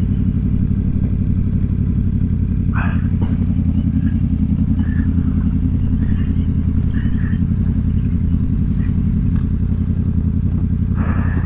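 Sport motorcycle engine running steadily at low, even revs.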